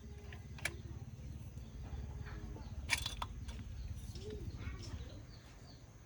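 A low steady rumble with two sharp clicks and faint short chirps; the rumble eases near the end.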